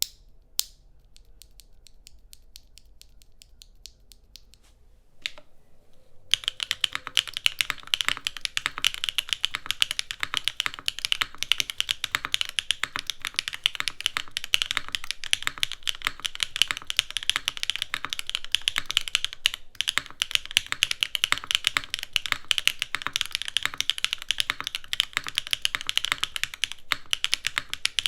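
Typing on a Neo80 mechanical keyboard with HMX Guava linear switches (HPE stems), a full, deeper-clacky key sound. Faint, scattered clicks come first, then fast, continuous typing from about six seconds in.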